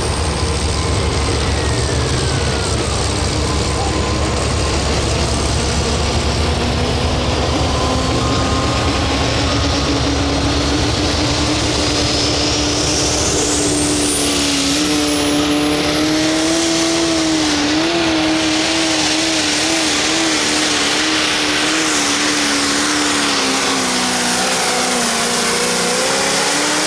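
Pro stock pulling tractor's turbocharged diesel engine running at full load during a pull, held wide open throughout. Its pitch climbs slowly, wavers up and down in the second half and drops as the throttle is let off at the very end.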